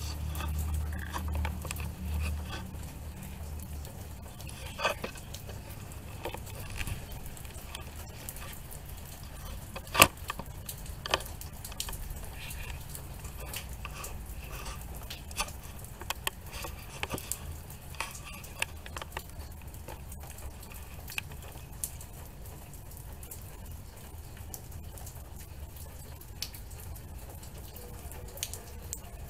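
Steady rain falling, with irregular drips and taps of water on hard surfaces and one loud sharp tap about ten seconds in. A low thunder rumble fades away over the first few seconds.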